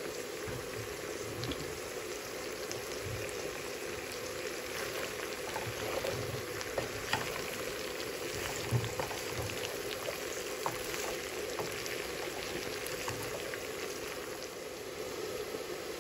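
Jackfruit seeds, chopped onion and ground spices sizzling in a pot as they are stirred, with a scatter of light knocks and scrapes of the spoon against the pot, most of them around the middle.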